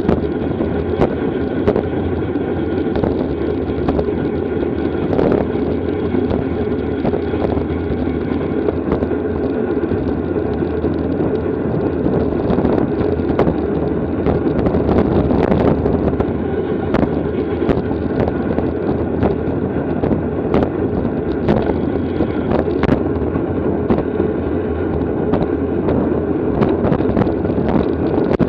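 Steady wind rush over the microphone of a camera on a racing bicycle moving at speed, with scattered short clicks.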